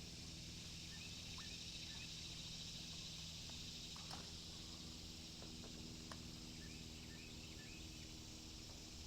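Quiet outdoor ambience: a steady high insect drone with a few faint bird chirps and a handful of light clicks in the middle.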